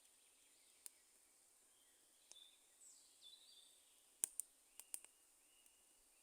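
Wood fire crackling with a handful of sharp pops, the loudest cluster about four seconds in, and faint bird calls.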